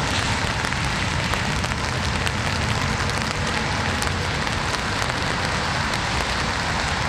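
Steady rainfall, with many small drops tapping on a surface amid an even hiss of rain.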